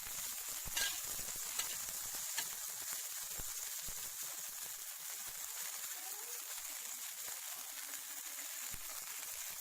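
Hot lard sizzling in a frying pan, with a steady hiss and a few sharp pops in the first couple of seconds.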